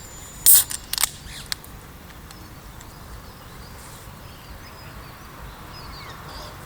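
Two sharp clicks or knocks, about half a second and about a second in, with a few smaller ticks after them, then steady faint background hiss.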